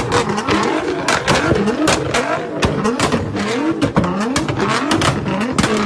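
Car engine revved over and over in quick blips, each rev rising and falling in pitch, with many sharp exhaust pops and crackles between them.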